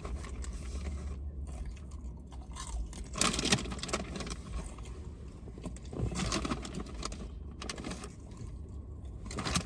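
Popcorn being chewed with crunching, loudest in short spells about three seconds in and again about six seconds in, over a steady low rumble.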